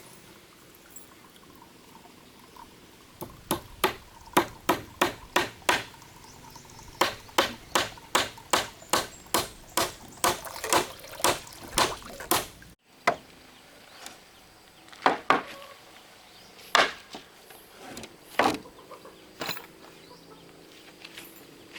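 Repeated blows of a hand tool striking, in fast even runs of about two to three strikes a second. After a sudden break partway through, a few slower, scattered blows follow.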